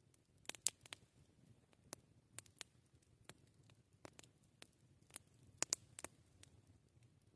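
Wood fire crackling: irregular sharp pops and snaps at an uneven pace, the loudest coming in quick pairs about half a second in and about three-quarters of the way through.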